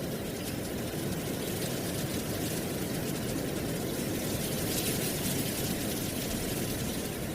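Steady wind blowing, with a low rumble under a hiss of rustling dry leaves, swelling slightly about five seconds in.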